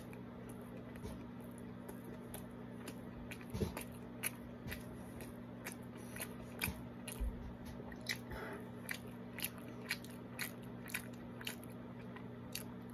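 A person chewing a mouthful of bacon cheeseburger with crispy bacon: faint, irregular clicks and crunches, roughly one or two a second, over a steady low hum.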